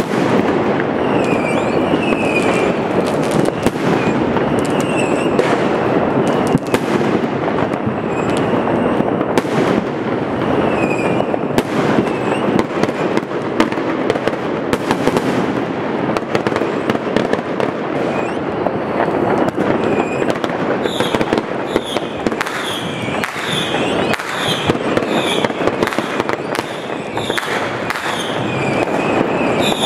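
Dense, nonstop fireworks and firecrackers banging and crackling without a break, with many short whistling glides becoming frequent about two-thirds of the way in.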